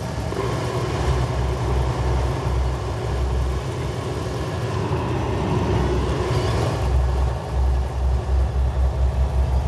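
Pickup truck's engine and road noise heard from inside the cab, a steady low rumble. Over the last couple of seconds the low rumble throbs several times a second.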